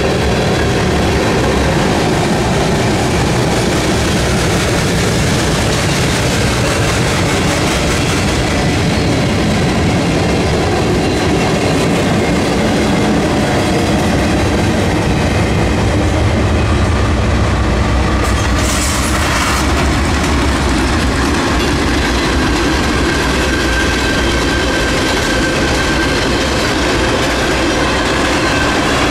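Freight train of tank cars and hopper cars rolling past close by, with a continuous steady noise of steel wheels on the rails. A brief higher-pitched burst comes about 19 seconds in.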